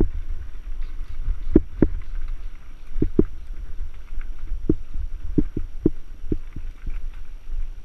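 Mountain bike rolling over rough ground: a steady low rumble with dull thumps from the wheels and frame, many coming in close pairs.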